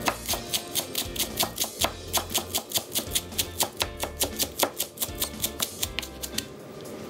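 Chef's knife rapidly chopping green onions on a plastic cutting board: quick, even chops about five or six a second, stopping near the end, over background music.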